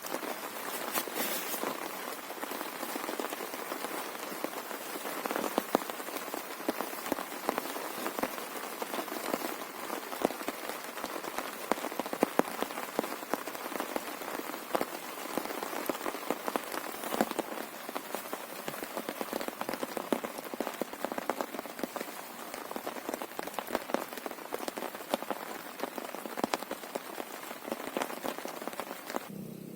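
Heavy rain falling steadily: a dense patter with many sharp, louder drop hits close by.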